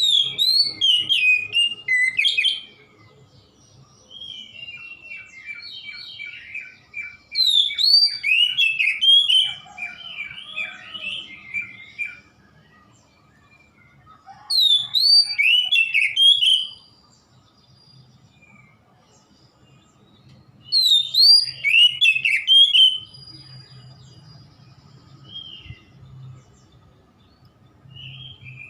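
Oriental magpie-robin singing in full voice: four loud outbursts of rapid, varied whistles and trills a few seconds apart, with softer single notes between them.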